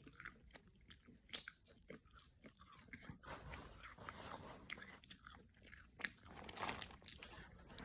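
Faint close-up chewing of a french fry, with soft crunches and small mouth clicks scattered through it.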